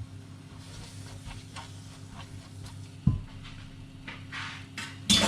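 Cooking utensil stirring and scraping a spice paste in a pan, with light clicks, a knock about three seconds in and a louder clatter near the end, over a steady low hum.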